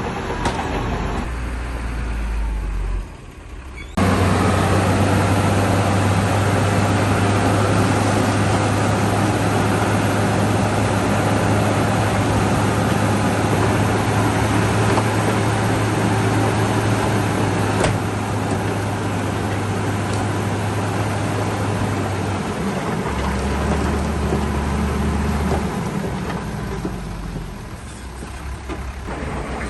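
Shantui bulldozer's diesel engine running hard with a steady low drone. It drops away briefly about three seconds in, then comes back at full load. Over the last several seconds it settles to a lower pitch and eases off.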